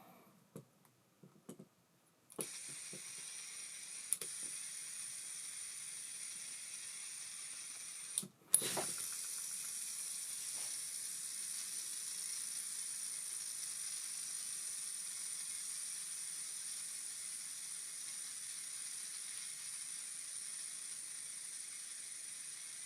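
An ABU Ambassadeur 2500C De Luxe baitcasting reel's spool, after a few light handling clicks, is set spinning freely about two seconds in, giving a long, steady, high whir. A sharp knock comes about eight seconds in, after which the whir goes on, fading very slowly. The reel has been tuned with its oil cut to a minimum so that it spins as freely as it can.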